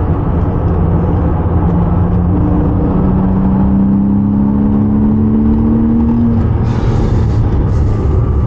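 Porsche Cayman S flat-six engine pulling hard through a gear, heard from inside the cabin, its note rising steadily. The driver lifts off about six seconds in and a hiss follows.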